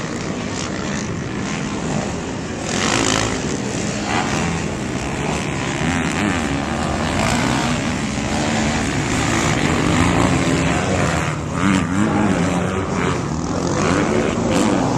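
Motocross dirt bike engines racing, the pitch rising and falling as the throttle opens and closes.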